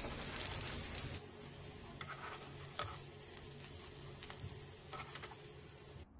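Lotus-root pancakes sizzling in hot oil in a frying pan. The sizzle is strong for about the first second, then quieter with a few crackling pops.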